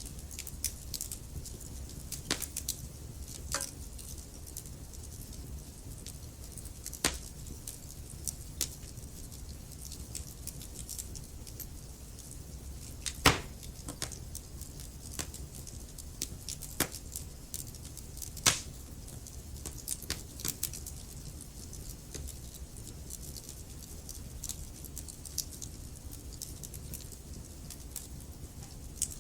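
Wood fire burning in a fireplace: irregular crackles and sharp pops from the burning logs over a steady low rumble, with two louder pops about a third and two-thirds of the way through.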